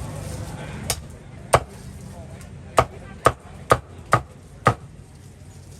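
Cleaver chopping on a chopping block: seven sharp strikes, spaced out at first, then coming about two a second.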